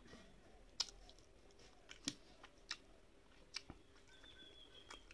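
Quiet mouth sounds of chewing a mouthful of rice and fish curry, with about five sharp wet clicks or smacks spread through.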